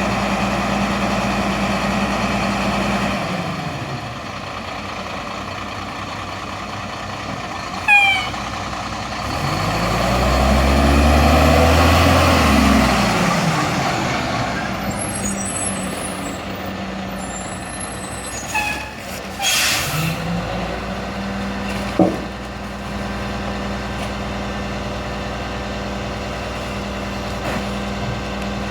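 Garbage truck engine idling, then revving up for a few seconds and falling back as it drives the packer. A short squeal, a burst of air hiss and a clunk follow, and the engine settles back to a steady idle.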